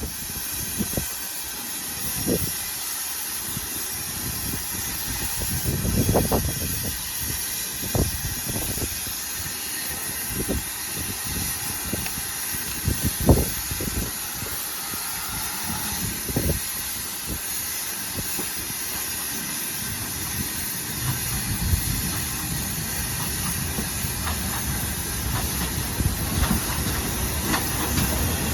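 Steam locomotive hissing steam steadily, with a few sharp knocks along the way and a low rumble building toward the end.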